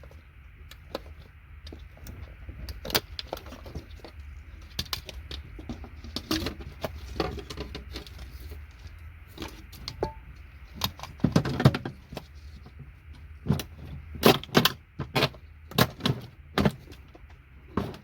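Hand cutters biting into a thick circuit board, giving irregular sharp cracks and clicks as the board gives way. There is a burst of loud cracks about halfway through and more near the end.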